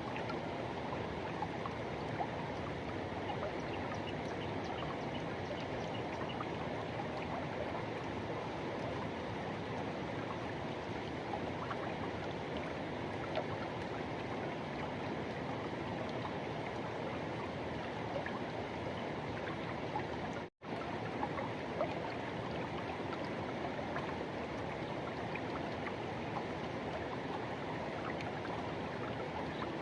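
Forest river rushing: a steady, dense wash of flowing water. It drops out to silence for an instant about twenty seconds in.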